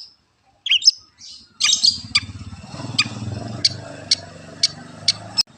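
Long-tailed shrike (cendet) singing: a few harsh, squawky notes, then from about a second and a half in a run of sharp single chips about twice a second. A low hum or rumble sits behind the chips.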